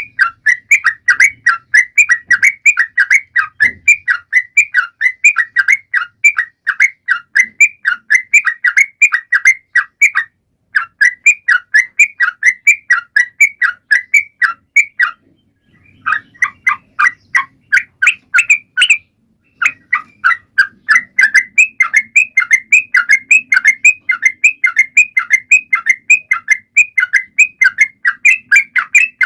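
Yellow-vented bulbul (trucukan) in full song: a continuous run of short, loud chattering notes, about three a second, broken by a few brief pauses.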